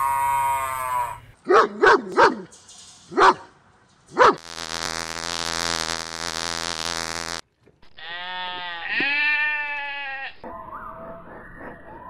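A string of animal sounds: a long pitched call and several short bleating calls from farm animals, then a steady buzz of honeybees lasting about three seconds, then a dog's rising and falling whines.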